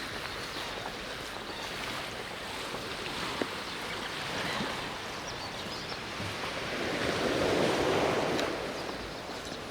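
Sea waves washing in steadily, with one louder wave swelling about seven seconds in and fading away.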